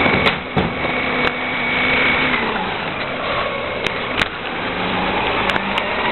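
Rear-loader garbage truck running, with a steady high whine that stops about two and a half seconds in and several sharp knocks.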